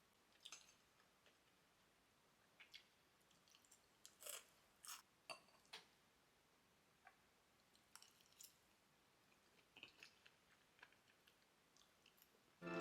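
Faint, scattered crunches and clicks of a person chewing food, a little busier about four to six seconds in. Piano music comes in at the very end.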